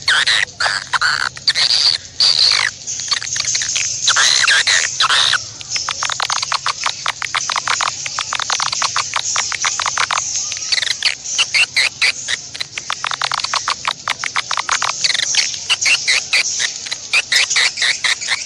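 Bird calls: fast chattering trills of many clicks a second, mixed with rising and falling whistled notes in the first few seconds and again later on, played back as a lure recording.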